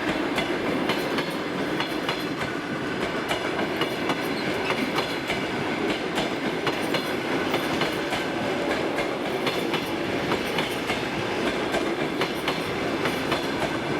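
Passenger train rolling past with a steady rumble, its wheels clicking over the rail joints in a continual clickety-clack.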